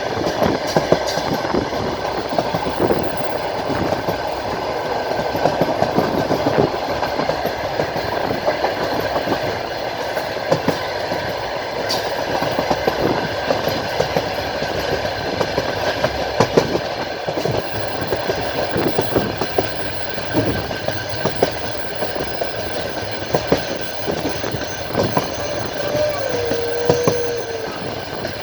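Passenger train carriage running along the line: a steady rumble of wheels on rails with irregular clicking and knocking over rail joints, the clickety-clack heard from inside the moving carriage. A brief wavering whine comes in near the end.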